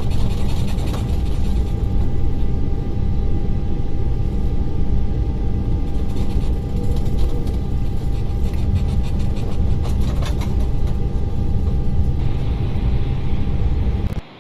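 Steady low rumble of an Airbus A330's cabin with the engines running before takeoff, with a faint steady tone above it. It cuts off suddenly near the end.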